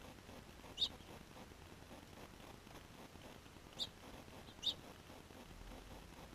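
Three short, high chirps from small birds feeding on seed, the first about a second in and two close together a little past the middle.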